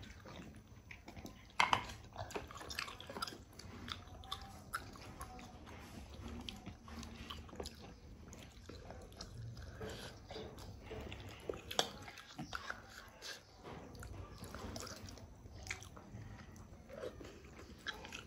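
Close-up eating sounds of a person chewing spicy hotpot noodles, with many small clicks and smacks scattered through. The loudest is a sharp click about one and a half seconds in.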